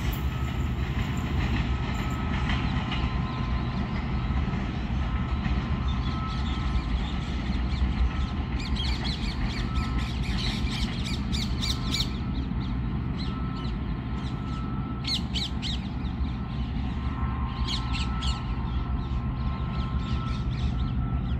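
A passenger express train running past on the track: a steady heavy rumble with bursts of sharper rattling in the middle and near the end.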